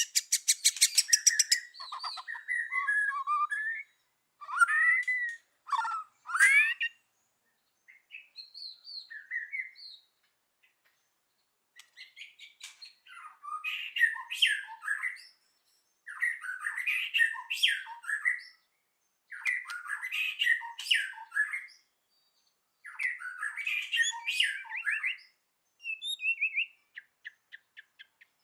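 White-rumped shama singing: a fast rattling burst at the start, then a run of varied, whistled and chattering phrases of one to three seconds each, separated by short pauses.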